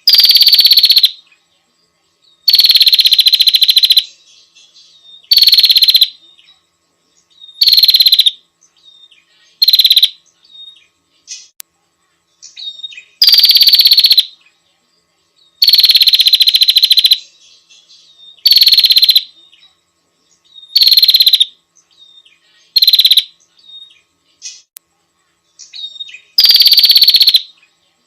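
Female prenjak (prinia) calling to a male: a loud, rapid buzzy trill about a second long, repeated about ten times with short pauses and soft chips between, each trill sliding slightly down in pitch.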